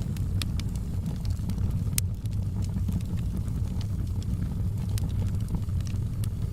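Wood fire burning in a fireplace, with scattered sharp crackles and pops, one louder pop about two seconds in, over a steady low rumble.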